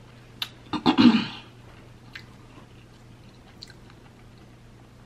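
Close-miked chewing of a soft mouthful of crab-stuffed salmon, with wet mouth clicks and a louder burst about a second in. After that it is mostly quiet, with a few faint clicks.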